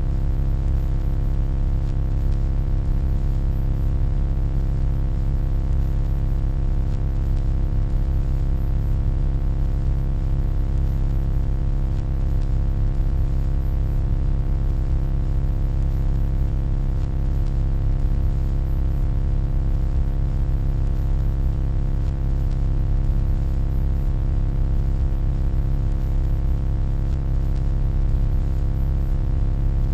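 Steady electronic hum, deep and low-pitched, with a stack of fainter steady overtones and a light hiss on top; it holds constant without any change.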